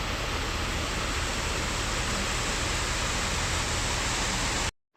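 Small waterfall rushing steadily, cut off abruptly near the end.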